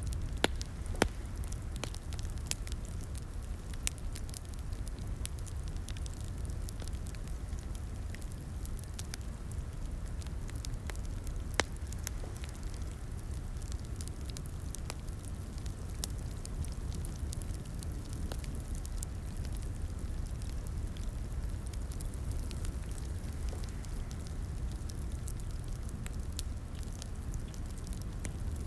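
Wood fire in a fireplace crackling, with irregular sharp pops over a steady low rumble of the flames; the loudest pops come about half a second, a second and eleven seconds in.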